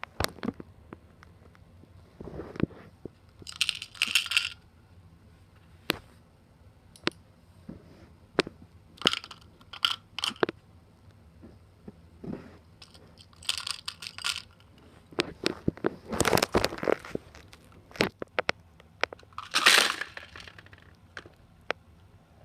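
Handling noise: scattered sharp clicks and knocks of small hard objects, with short crinkly rustles about 4, 14 and 20 seconds in.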